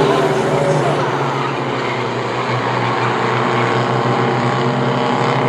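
A field of race trucks running at speed around a short oval track, several engine notes overlapping in a steady, loud drone.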